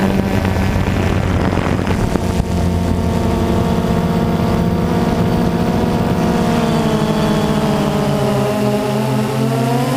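Jet ski engine running steadily at speed, its pitch sinking over the last couple of seconds.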